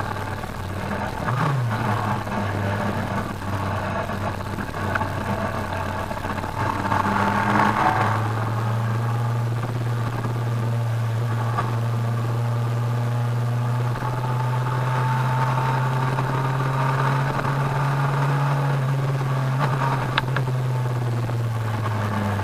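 Kawasaki ZRX1200R's inline-four engine running at road speed from the rider's seat, with wind rush over the microphone. The engine note dips briefly about a second and a half in, then holds steady and climbs slowly before easing off near the end.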